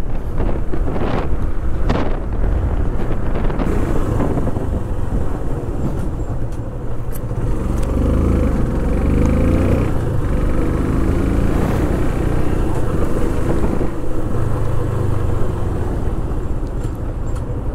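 Yamaha FZ16 motorcycle's single-cylinder engine running under load as the bike climbs a slope, its pitch shifting with the throttle, with wind noise on the microphone.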